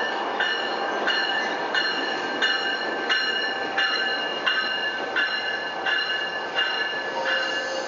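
TriRail double-deck commuter train rolling into a station with a rumble, while a bell rings steadily about three strokes every two seconds. A steady squeal of braking wheels starts near the end.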